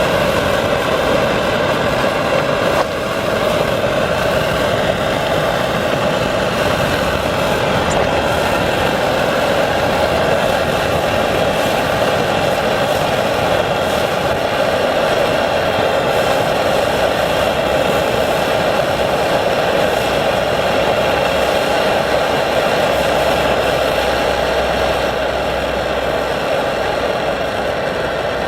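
Phoebus 725 gasoline pressure stove burning steadily: the continuous roar of its burner flame during a test firing, with a brief dip about three seconds in.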